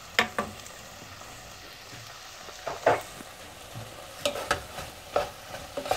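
Prawns and drumstick pieces sizzling steadily in a nonstick pot, with a few sharp scrapes and knocks of a spatula against the pot as chilli powder is stirred in.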